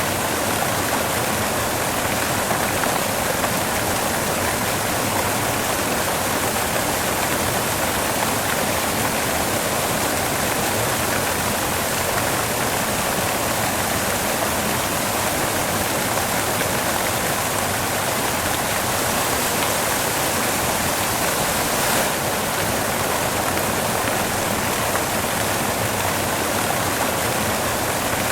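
Steady, even white-noise hiss with no rhythm or change, broken only by a faint brief tick about 22 seconds in.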